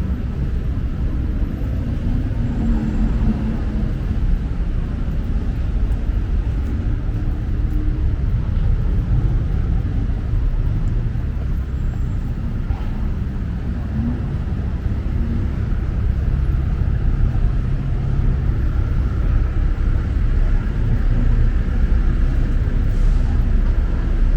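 Steady low rumble of busy city street traffic, engines and tyres running continuously.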